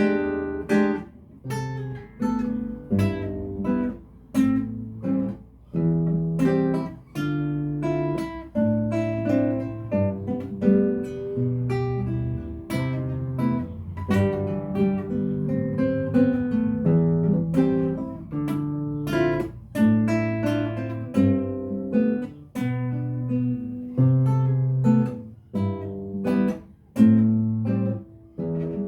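Acoustic guitar music: chords struck in a steady rhythm over changing bass notes.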